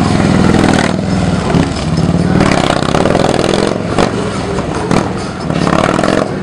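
Harley-Davidson V-twin motorcycle engine running and being revved at low speed, its pitch rising and falling. A few sharp clicks come through about one and a half, four and five seconds in.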